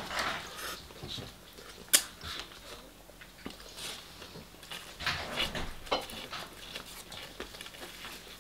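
A person chewing and biting into fried chicken in irregular short bursts of mouth noise, with a sharp click about two seconds in and a louder run of chewing about five to six seconds in.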